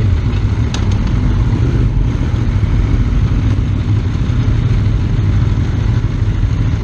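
Motorcycle engine running with a steady low rumble and no change in revs, with a brief faint click about a second in.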